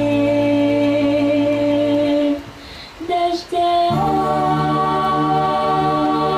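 Sung music: a long held vocal note with harmony stops about two seconds in. After a short pause with a brief sung note, a new chord of voices is held steadily to the end.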